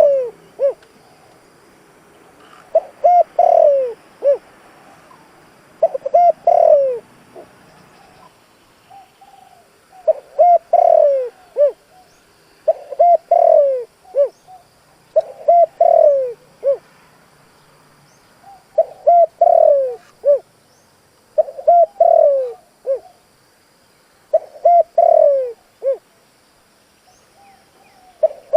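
Spotted dove cooing: the same short phrase of a few quick notes ending in a falling coo, repeated about every three seconds. It is the territorial song of a decoy male, used to provoke wild doves.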